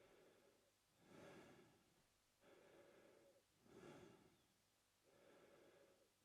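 A man breathing slowly and quietly through his mouth. Louder, hissier breaths alternate with softer, lower ones, about two and a half full breaths in all.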